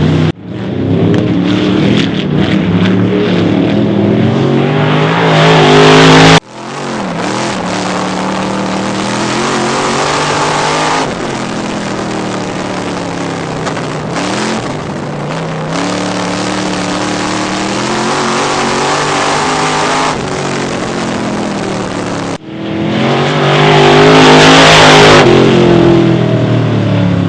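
Two-seater dirt-track race car's engine running hard, its pitch climbing and dropping with the throttle. The sound cuts off abruptly twice and picks straight up again.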